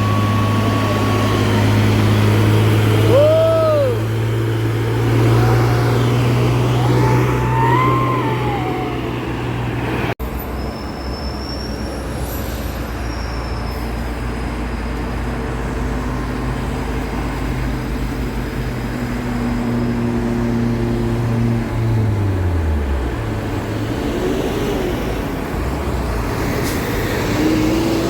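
Heavy truck's diesel engine labouring up a steep incline, a steady low drone with wavering higher whines over it. The engine note drops away a little past two-thirds of the way through.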